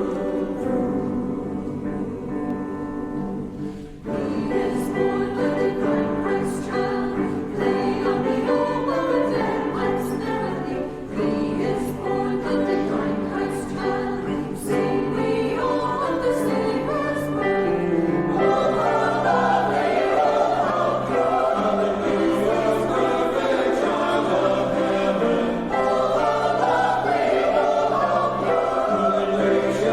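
Church choir singing an anthem, the sound thickening and growing fuller about 18 seconds in.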